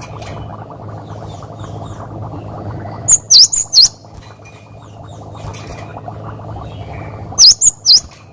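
Cinereous tit (gelatik batu) singing: two phrases of about four sharp, high whistled notes, four seconds apart. A steady low noise and faint chirps run underneath.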